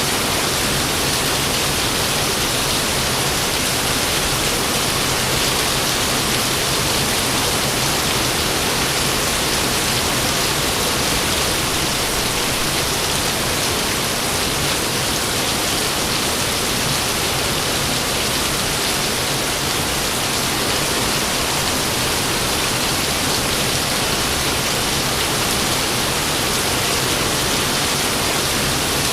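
Steady rain falling: an even, unbroken hiss that stays at the same level throughout.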